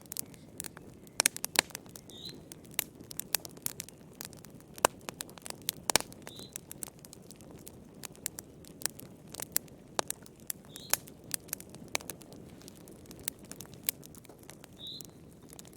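Wood fire crackling in a fireplace: irregular sharp pops and snaps from the burning logs over a steady low rumble of flame. A faint, short, high chirp recurs about every four seconds.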